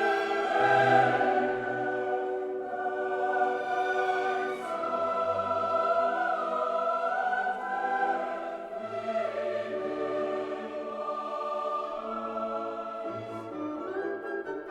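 Background music: a choir singing sustained chords over a low accompaniment.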